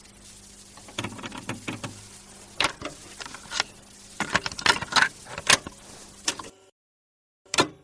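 Irregular clicks, knocks and rattles over a low steady hum, cutting off suddenly, followed by one more brief click near the end.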